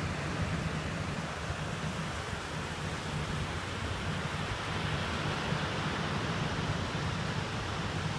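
Steady rushing noise of ocean surf and wind, with the wind rumbling on the microphone.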